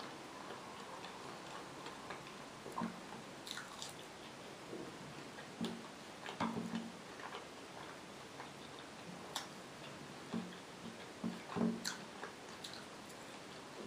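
Close-miked eating sounds of someone chewing fried potatoes: soft irregular mouth clicks, smacks and chewing, louder about halfway through and again near the end.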